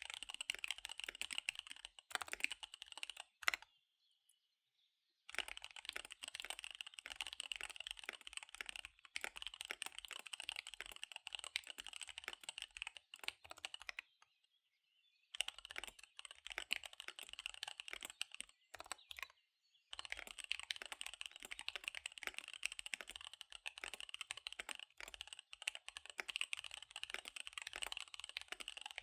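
Fast typing on a KBD75 V3 mechanical keyboard with SP-Star Dark Magic Girl tactile switches and DSA Magic Girl keycaps: rapid runs of key clacks that stop twice for a second or so, about four and fourteen seconds in. One sharp, louder keystroke comes just before the first pause.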